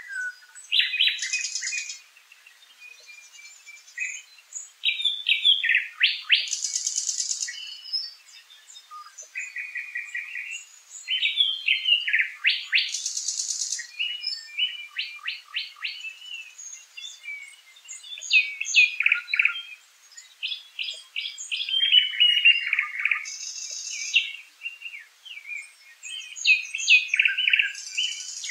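A songbird singing a varied song of short phrases separated by brief pauses, several made of one note repeated quickly, with a few short hissy, buzzy notes among them.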